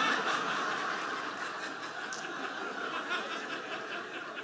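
Audience laughing at a punchline, loudest at the start and slowly dying down.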